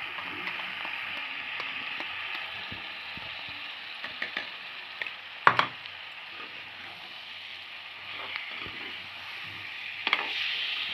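Potato pieces frying in oil in a steel kadhai, a steady sizzle, with a perforated metal slotted spoon scraping and knocking against the pan as masala paste is stirred in. The loudest knock comes about halfway through, with a few more around four seconds in and near the end.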